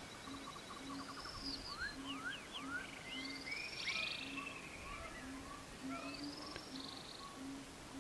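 Faint birdsong, quick rising chirps and short whistled calls, over a soft music bed with a low note pulsing about twice a second.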